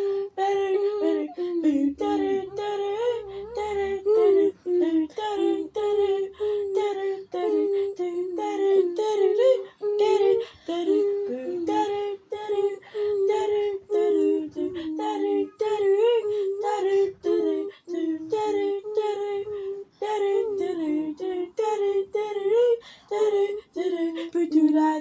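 A high voice singing wordless scat syllables a cappella, in short, choppy notes that stay around one pitch.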